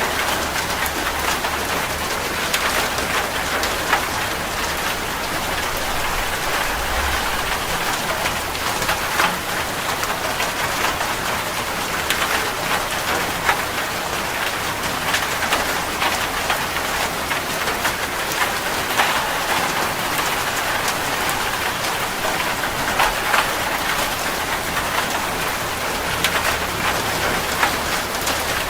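Steady rain falling on a surface, with many distinct drop impacts over a continuous hiss.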